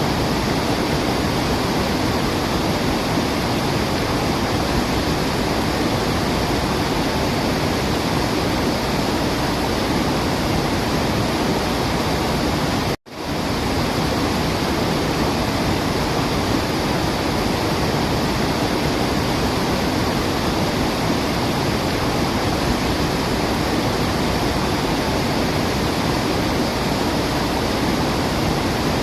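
Steady, even rush of a waterfall, with a sudden brief dropout about halfway through before the water sound resumes.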